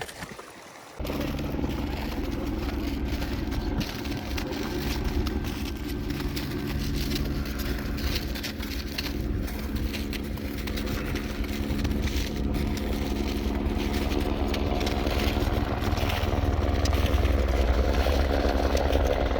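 Helicopter running: a steady engine and rotor sound that starts abruptly about a second in and grows louder over the last few seconds.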